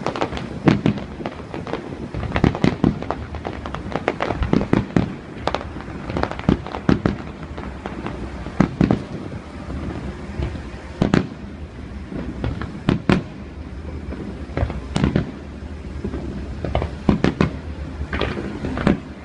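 Fireworks display: an irregular run of bangs and pops, with the loudest booms coming every second or two.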